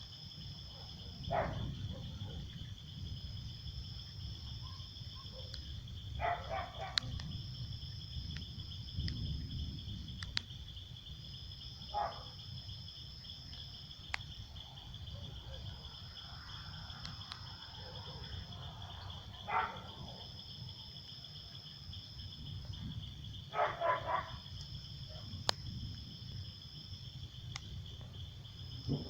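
Crickets chirring steadily in a night insect chorus, with a second, higher insect trilling in phrases of a few seconds. Short calls come every few seconds over a low rumble.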